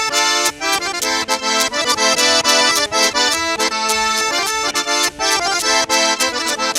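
Fast traditional Nogay dance music led by an accordion, with many quick notes over a steady, sharp beat.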